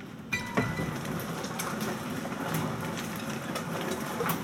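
Heavy hail and rain pelting down, a dense clatter scattered with sharp knocks of individual hailstones, which gets suddenly louder about a third of a second in.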